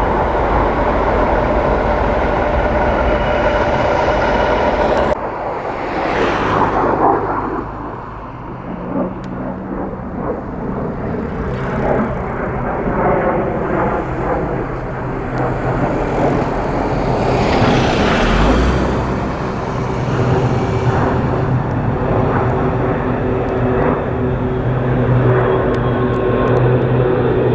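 Jet aircraft flying past: loud jet engine noise that changes abruptly about five seconds in, then swells and fades as it passes.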